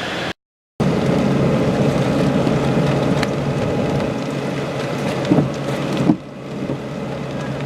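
Steady vehicle running noise with a low hum, after a brief dropout near the start, with a couple of short knocks around the middle.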